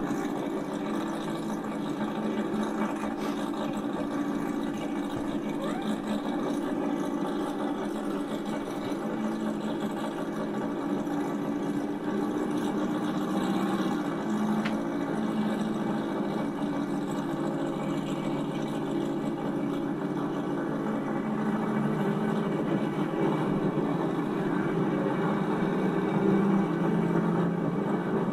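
Drag-racing VW Beetle's engine idling at the start line, its pitch stepping up and down a little now and then, heard through a muffled old VHS recording.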